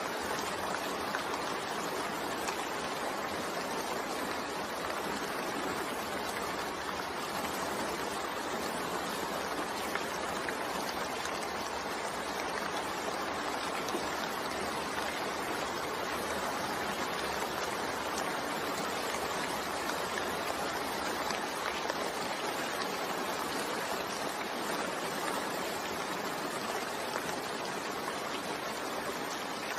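Steady rain falling, an even hiss with no separate drops, thunder or other events standing out.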